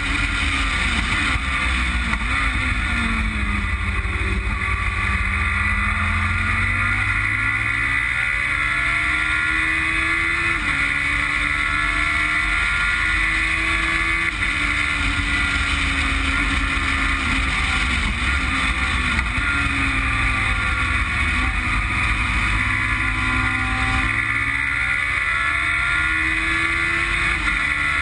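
Onboard sound of a Westfield Megabusa's Suzuki Hayabusa four-cylinder motorcycle engine at full track pace, its pitch climbing with sharp drops at two gear changes, falling as the car slows, then rising again as it accelerates.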